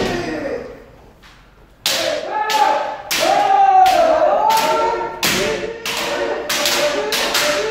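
Bamboo shinai striking kendo armour over and over, with loud pitched kiai shouts. After a quieter second near the start, the strikes come thick and fast from about two seconds in.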